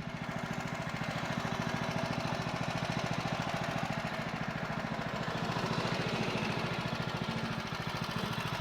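Woodland Mills HM130 bandsaw sawmill running on its 14 HP Kohler engine: a steady, fast-pulsing engine note with the band saw's higher hiss over it.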